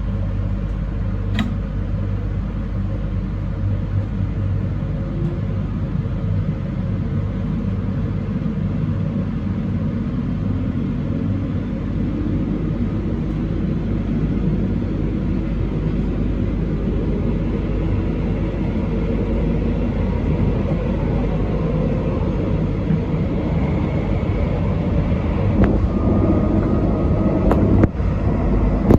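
Train running along the track, heard from the driver's cab: a steady rumble of wheels and running gear, with a faint whine rising in pitch in the second half and a couple of sharp clicks, one early on the run and one near the end.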